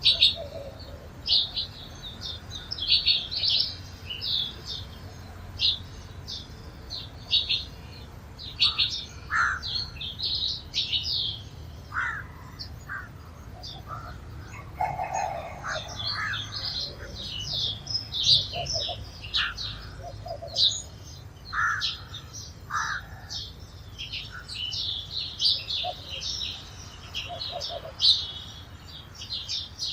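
A flock of sparrows chirping continuously in quick, short chirps, with scattered lower calls from other birds. A steady low rumble runs underneath.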